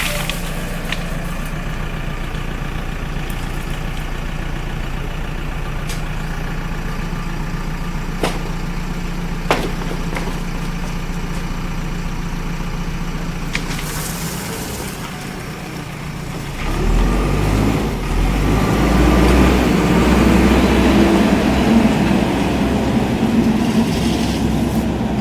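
JCB backhoe loader's diesel engine running steadily, with a few sharp clicks or knocks. About two-thirds of the way through it revs up louder and rougher as the machine works under load.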